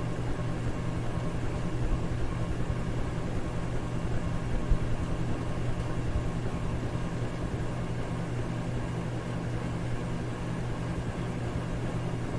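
Electric fan running at a steady speed: a constant low hum under an even rush of air.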